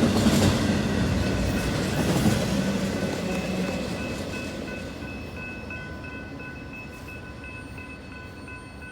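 Norfolk Southern freight train rumbling past on the rails and fading steadily as it moves away. As the rumble dies down, steady high ringing tones come through, typical of a grade-crossing warning bell.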